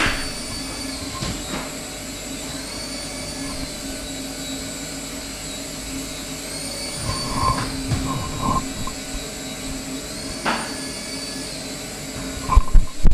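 Small toy RC helicopter's electric motors and rotors whirring, the high whine rising and falling every few seconds as the throttle changes. A few light knocks come around the middle, and loud thumps start near the end.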